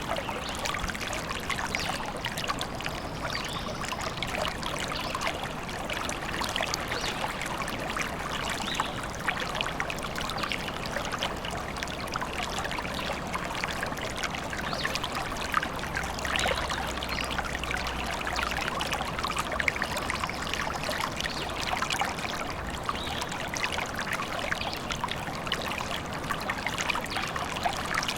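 A small stream trickling and splashing over stones, a steady bubbling flow.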